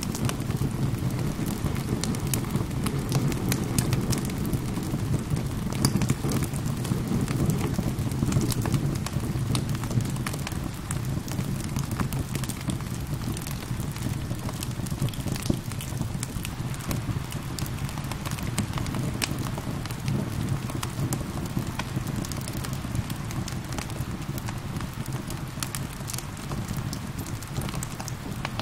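Wood fire crackling with frequent sharp pops and snaps over a steady patter of rain.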